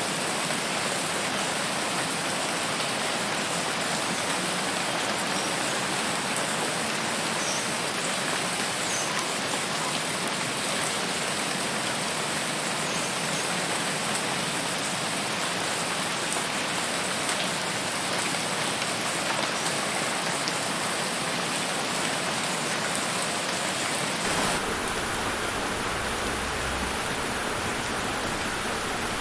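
Steady rain falling, an even hiss. About 24 s in, the sound shifts slightly and a deeper rumble is added underneath.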